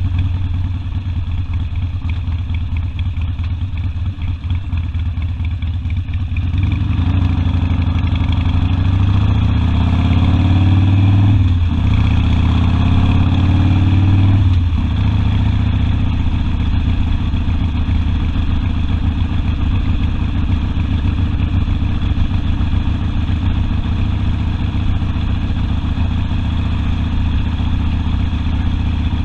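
Harley-Davidson Sportster V-twin engine running steadily at low revs, then from about six seconds in revving up, shifting gear with a short break, revving up again and settling back to a steady cruise about fifteen seconds in.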